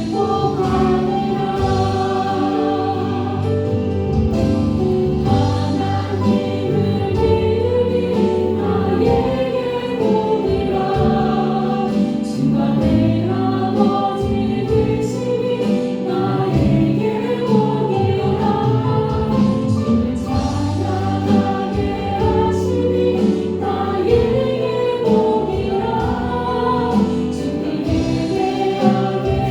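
Live worship music: a praise band playing a Korean praise song with singers carrying the melody over a steady bass line.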